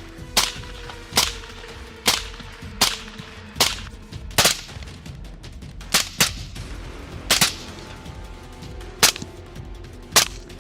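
Semi-automatic rifle fire: about eleven sharp shots, roughly one a second, with two in quick succession about six seconds in and longer gaps after. A faint steady low hum runs underneath.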